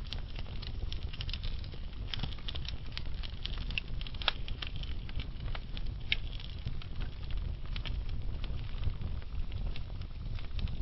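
Logs burning in a fireplace: a steady low rumble from the flames under frequent, irregular crackles and pops, with a sharper pop about four seconds in.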